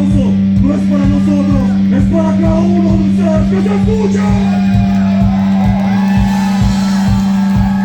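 Live rock band playing loudly: a held low note under a steady drum beat, with a wavering sung or lead melody line on top.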